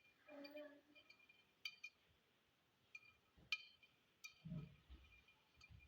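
A few faint, light clinks, short and with a slight ring, in a quiet room, with a soft low thud about halfway through.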